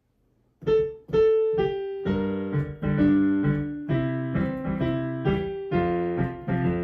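Piano introduction to a children's song: after a brief silence, three single notes, then a run of full chords with a bass line.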